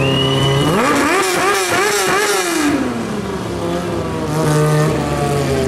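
Sportbike engines in a stunt show: a steady engine note, then a run of quick revs rising and falling from about a second in, dropping back to a steadier note near three seconds.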